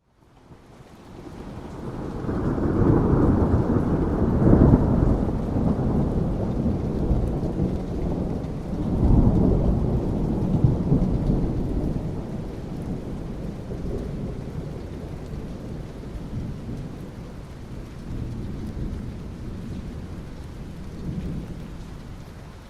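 A long rolling thunder rumble over steady rain: it swells up out of near silence in the first two seconds, peaks twice, and slowly dies away into the rain.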